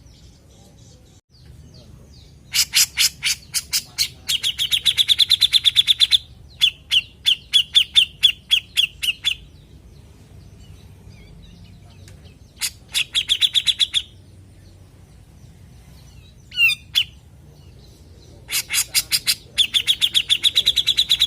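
Cucak jenggot (grey-cheeked bulbul) singing loud bursts of sharp notes that speed up into a fast, high chattering trill, four times, with one short call in between.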